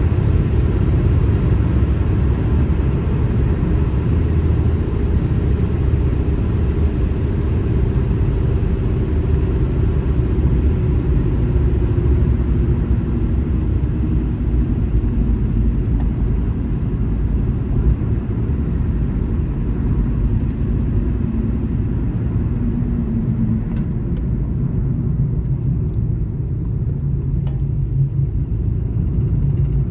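Car driving at highway speed: a steady low rumble of road and tyre noise, with a faint engine tone drifting slightly in pitch.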